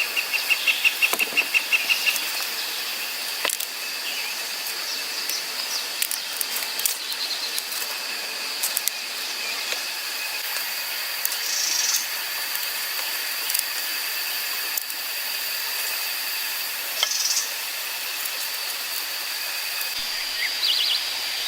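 Insects trilling steadily at a high pitch, with a fast pulsing trill in the first two seconds and scattered light clicks throughout.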